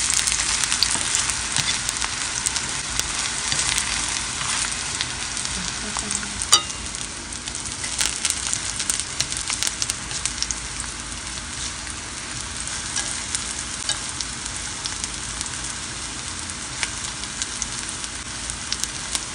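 Shrimp balls sizzling in hot oil in a nonstick frying pan, the sizzle easing a little over the first several seconds and then holding steady. Chopsticks tap the pan now and then as the pieces are turned, with one sharper tap about six seconds in.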